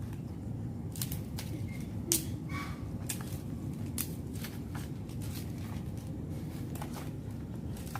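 Dry sticks and twigs snapping and crackling as firewood is broken and handled: a scatter of short, sharp snaps over a steady low rumble.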